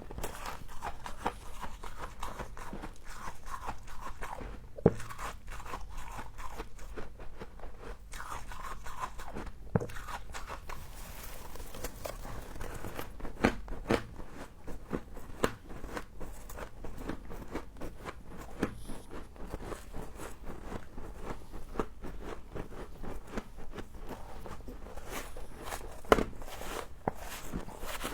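A person biting and chewing frost ('humidifier frost'), with dense, irregular crunches and crackles throughout.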